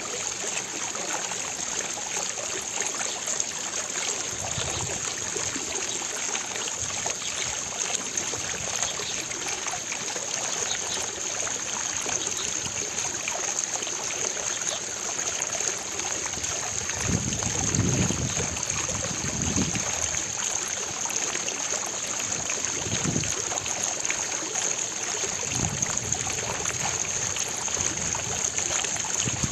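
Fountain water splashing and falling steadily, an even rushing hiss, with a few brief low rumbles in the middle and latter part.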